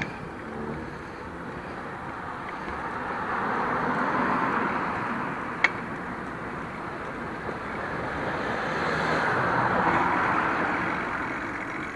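Road traffic passing: tyre and engine noise of cars that swells and fades twice, with a single sharp click about halfway through.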